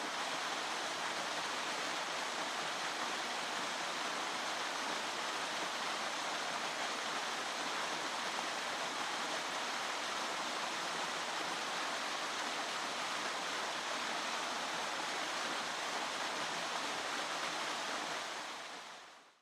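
Steady rush of falling water from a waterfall, an even roar without breaks that fades out in the last second or so.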